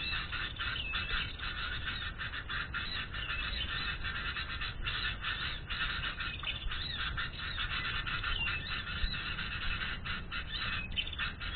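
Dense, continuous chattering of many small birds, short squeaky calls overlapping without a break.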